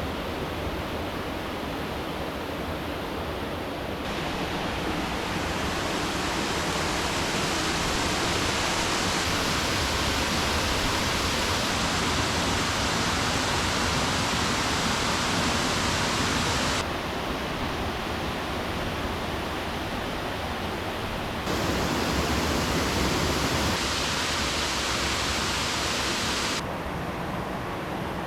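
Rushing river water, a steady noisy rush whose loudness and brightness jump abruptly several times, shifting from duller to hissier and back.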